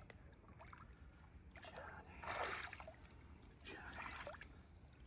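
Faint paddle strokes in river water from a passing canoe or kayak, a splash every second or two.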